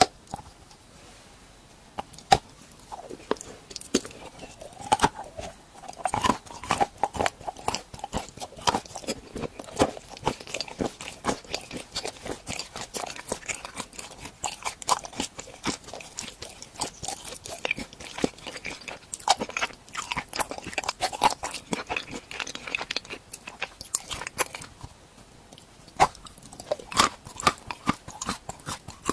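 Close-miked crunchy biting and chewing of edible treats shaped like tools. A sharp bite comes about two seconds in, then a long stretch of crisp crunching and chewing. Near the end it eases briefly, then a few more crisp bites follow.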